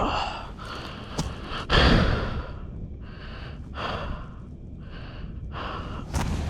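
A person breathing hard: a run of heavy, gasping breaths roughly a second apart, the loudest about two seconds in, over a low rumble.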